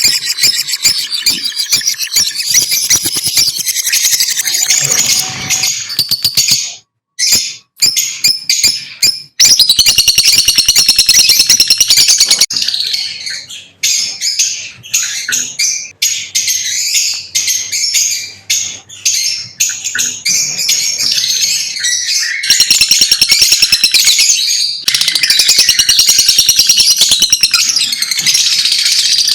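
Lovebirds chirping rapidly and continuously in high-pitched calls, with a few brief breaks.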